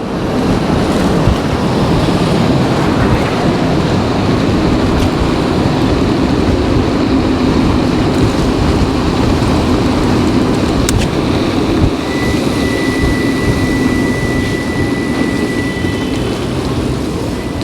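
Steady rush of wind and road noise from riding an electric bike through city traffic. A thin, steady high tone holds for about four seconds in the second half.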